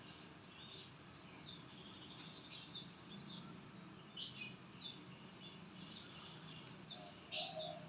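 Caged murai (magpie-robin) singing in short, high chirps and whistled notes, scattered irregularly and faint, over a steady low background hum.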